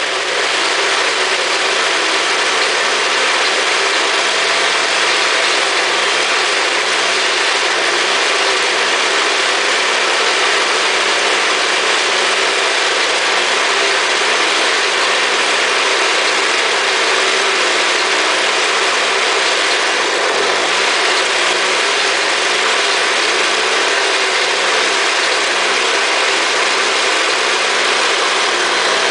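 Jacobsen snow blower's two-stroke Tecumseh engine running steadily just after a cold start, the first start in months.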